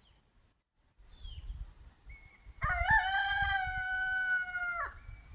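A rooster crowing once, a single long cock-a-doodle-doo that starts about two and a half seconds in, rising at the start and dropping off at the end.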